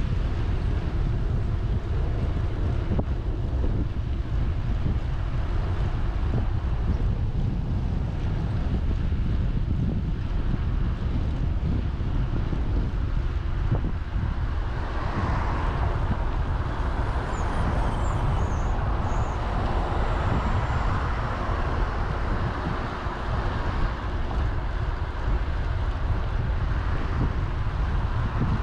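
Wind buffeting the microphone of a camera on a moving bicycle, a steady low rumble. About halfway through a broader rushing noise swells for several seconds, then fades.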